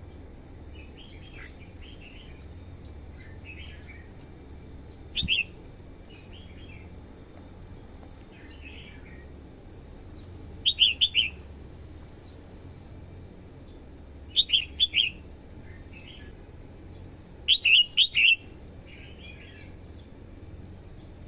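Red-whiskered bulbul singing: short loud bursts of quick notes every few seconds, with softer phrases in between, over a steady high-pitched whine.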